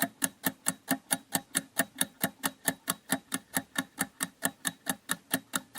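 Countdown-timer ticking sound effect: short, sharp, even ticks, about four to five a second.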